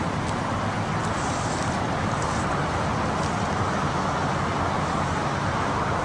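Steady, even background noise outdoors, a constant rumble and hiss with no distinct events.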